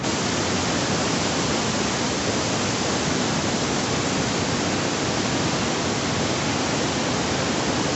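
Victoria Falls, a huge waterfall, giving a steady, even roar of falling water.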